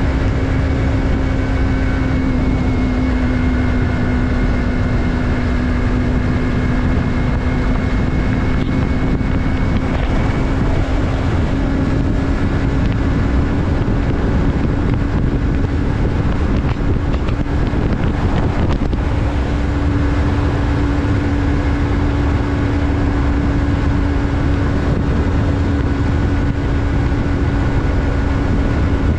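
Yamaha MT-03's parallel-twin engine running at a steady cruise, with wind rushing over the microphone. The engine note holds nearly constant, dipping slightly early on and rising a little past the middle.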